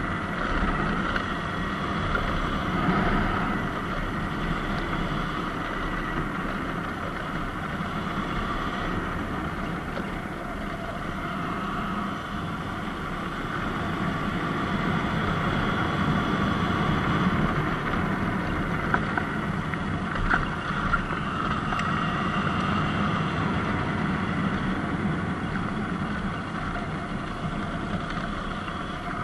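Surron X Light Bee electric dirt bike riding downhill: steady wind and tyre noise with a faint, even motor whine running under it.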